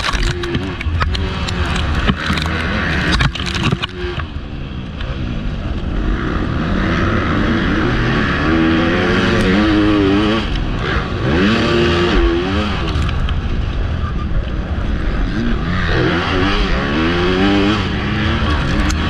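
Motocross bike engine revving hard and dropping again and again as the rider races, the pitch rising and falling every second or two. It carries through a helmet chin-mounted camera, with sharp knocks in the first few seconds.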